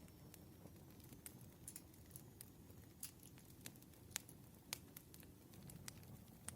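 Faint campfire crackling: irregular sharp pops and snaps of burning wood over a low, steady rumble of the flames.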